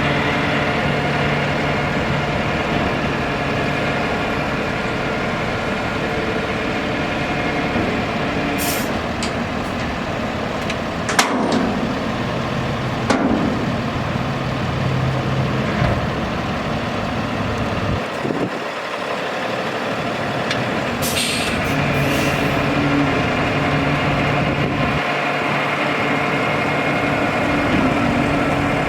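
Cummins 6.7-litre diesel engine of a Freightliner M2 dump truck running steadily, with several short hisses of released air.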